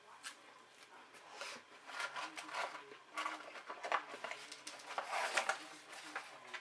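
Close-miked chewing and wet mouth noises from eating a Grand Mac burger: irregular clusters of smacks and clicks.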